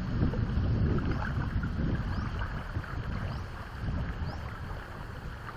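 Strong wind buffeting the microphone in gusts, a low rumbling noise that swells and eases.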